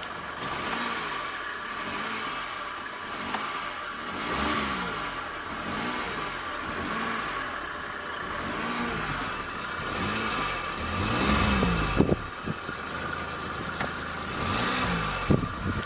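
Car engine revved up and down over and over as the accelerator pedal is pumped, its pitch rising and falling roughly once a second, with a steady high whine underneath.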